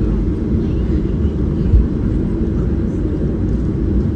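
Cabin noise inside a Boeing 737-800 on the ground after landing: a steady low rumble of the engines and airframe.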